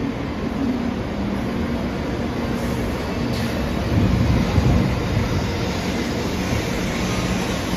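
923-series Doctor Yellow shinkansen inspection train running past close by: a steady rush and rumble from its cars, with a louder low rumble swelling about four to five seconds in.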